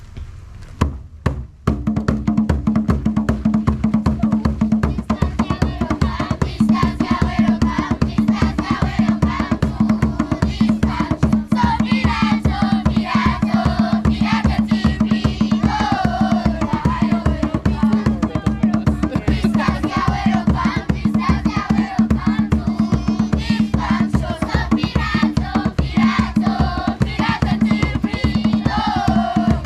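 A children's group performing: drums start about two seconds in with a fast, steady beat, and group singing joins over the drumming from about six seconds in.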